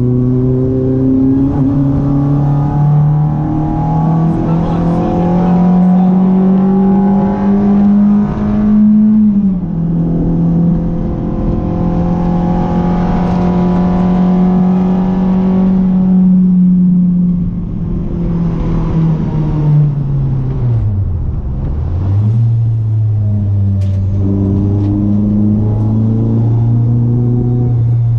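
Renault Clio RS 182's 2.0-litre four-cylinder engine under hard driving: the note climbs for about nine seconds, dips briefly at a gear change and holds high, then falls away steeply as the car slows about eighteen seconds in, before picking up to a steadier, lower pitch.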